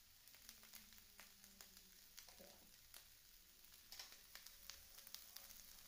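Chopped vegetables and corn frying in oil in a non-stick pan: a faint sizzle with scattered small pops and crackles of the hot oil.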